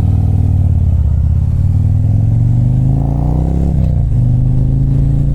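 2024 Harley-Davidson CVO ST's Milwaukee-Eight 121 V-twin accelerating under way, its pitch climbing. The pitch drops sharply just under four seconds in as it shifts up, then it runs steady.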